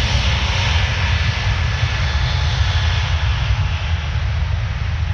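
Airbus A321 jet engines at takeoff power during a rolling takeoff: a loud, steady roar with a deep rumble underneath. The high hiss is brightest in the first couple of seconds and eases slightly after that.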